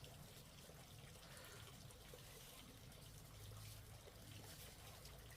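Near silence: faint background noise with a few small ticks.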